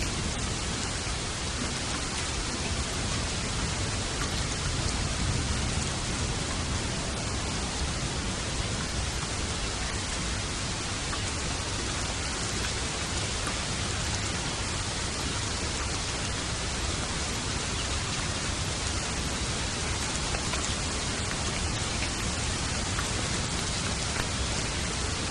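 Steady heavy rainfall, an even wash of rain noise with a faint low rumble underneath.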